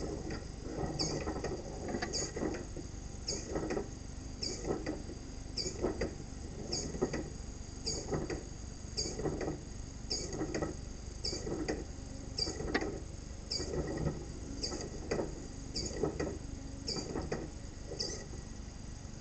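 Solenoid in a 3D-printed pulse-propulsion device firing over and over, about once a second, each pulse a sharp click with a duller knock as its moving mass strikes.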